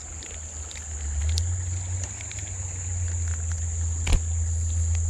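Insects, crickets by their sound, droning steadily in one high tone, over a low rumble on the microphone that grows louder after about a second. There are scattered small ticks and one sharp click about four seconds in.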